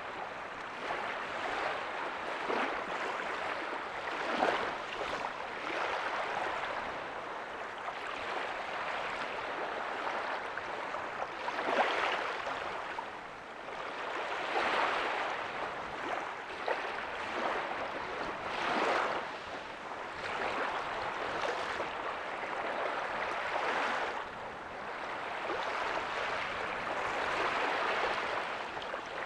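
Small ocean waves breaking and washing up a beach, a steady rush of surf that swells and eases every few seconds, with a sharper splash of a wave collapsing now and then.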